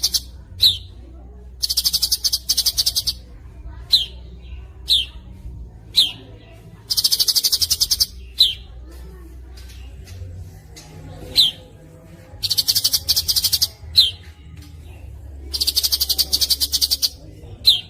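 Songbird masteran recording of the fast, tightly packed 'speed rapat' type. High, rapid trills of about a second and a half come four times, alternating with single sharp downward chirps.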